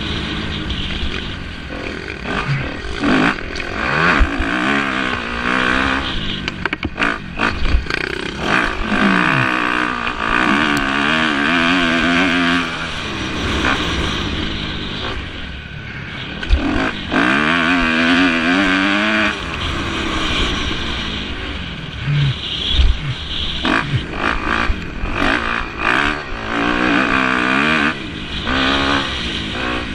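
Motocross motorcycle engines revving hard, the pitch climbing and dropping again and again as the bikes accelerate, shift and back off around the track, with frequent sharp knocks mixed in.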